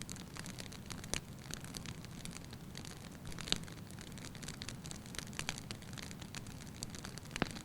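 Logs burning in a fireplace, crackling: a steady low rumble of flame with frequent sharp pops, the loudest about a second in, midway and near the end.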